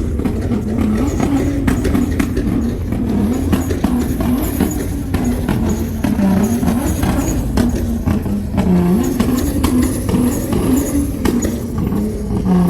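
Car engine being revved hard and held up, its pitch wavering up and down and dipping several times, over a low exhaust rumble.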